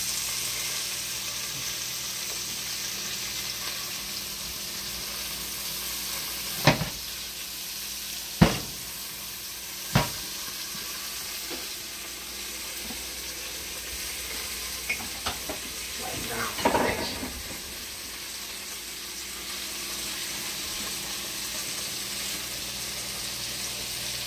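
Chicken breast sizzling as it fries in butter in a cast-iron skillet, a steady hiss. A few sharp knocks come about 7, 8 and a half, and 10 seconds in, with a short clatter a few seconds later.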